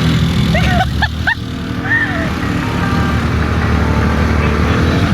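Off-road buggy engine running under way, with its hum dropping off about a second in and then building back up. A few short voice sounds come over it around then.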